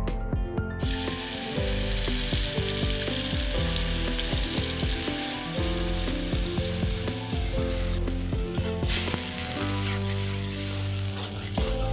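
An orange-yellow liquid hits a hot wok and sizzles loudly from about a second in, frying steadily and thinning out near the end. Background music with sustained notes plays underneath.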